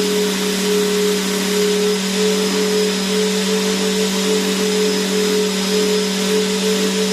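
Vacuum cleaner motor running steadily: an even rushing hiss over a constant hum, with a slightly wavering higher tone.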